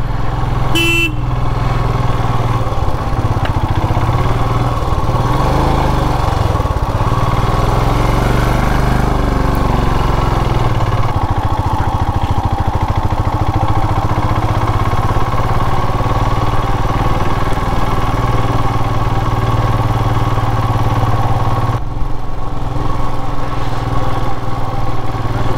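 Royal Enfield Classic 350's single-cylinder engine running steadily while riding, its note rising and falling a little between about four and ten seconds in. A short horn beep sounds about a second in.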